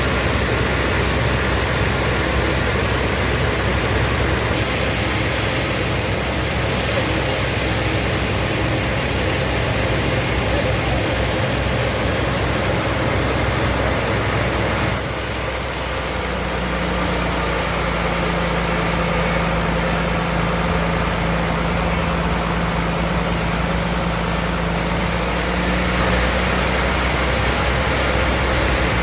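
Sawmill bandsaw running steadily. About halfway through the sound shifts: the deep rumble drops, and a high hiss with a steady hum comes in for about ten seconds.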